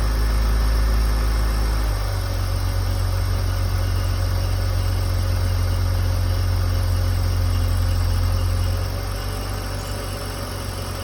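2004 BMW X3 3.0i's inline-six petrol engine idling steadily; its low hum shifts about two seconds in. This is the idle where the owner hears a chirping or ringing that appears only while the engine is cold and goes away with a touch of throttle.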